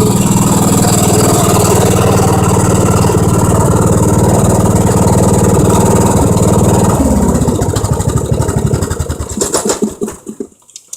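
Riding lawn tractor's engine running steadily, then shut off about seven seconds in, its pitch sliding down as it runs down and dies over the next few seconds. A few clicks follow near the end.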